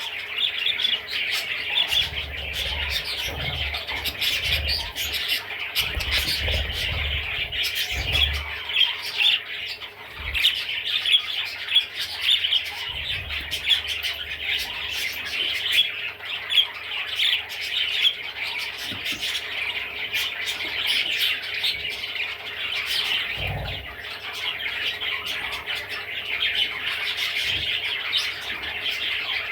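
Budgerigar warbling: a continuous stream of fast, scratchy chirps and chatter, with a few soft low bumps along the way.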